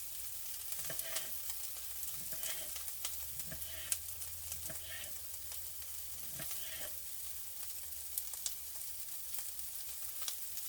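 Bell peppers frying in a pan, with a steady sizzle and scattered sharp clicks and knocks over it.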